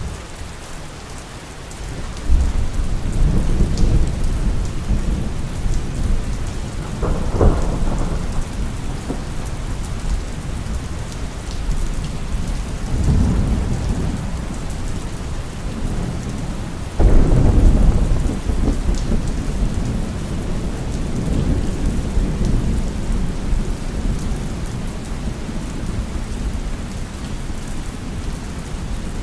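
Heavy, steady rain with rolling thunder. Low rumbles build from about two seconds in, a sharper crack comes near seven seconds, and the loudest peal breaks suddenly about seventeen seconds in and then rolls slowly away.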